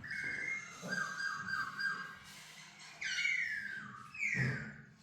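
Laughingthrush singing clear whistled notes: a quick run of short repeated notes, then two downward-sliding whistles near the end.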